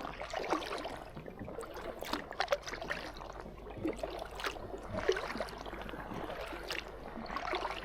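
Kayak paddle strokes in calm lake water: blades dipping in and water trickling and dripping off them, in an uneven run of small splashes.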